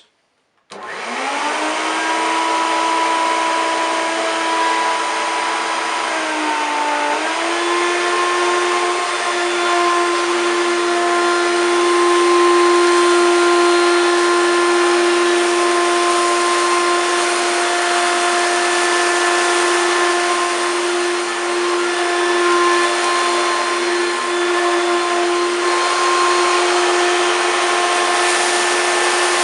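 1993 Hoover Turbopower 2 1000 vacuum cleaner switched on, its motor spinning up with a rising whine about a second in and then running steadily. About seven seconds in the pitch dips briefly and then settles higher, as the auto-sense power control steps the motor up.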